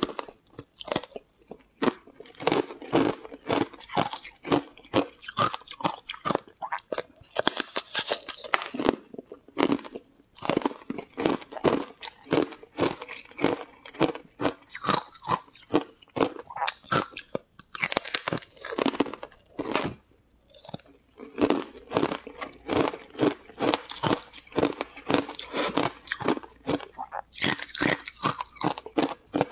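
Mouth sounds of eating a sheet of food coated in green powder: steady chewing at about two strokes a second, with louder crunching bites about a quarter of the way in, past halfway and near the end.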